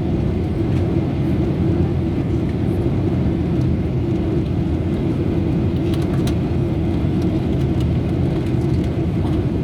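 Jet airliner cabin noise: a steady, even drone of engines and airflow heard from inside the cabin.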